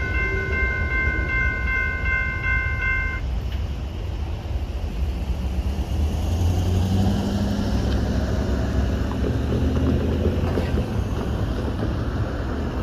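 Train horn sounding a chord of several steady notes, cut off sharply about three seconds in, over the continuous low rumble of a passing train. A deeper engine hum swells near the middle.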